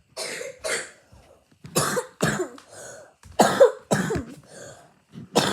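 A person coughing repeatedly in short, sharp coughs, about seven of them, mostly in pairs.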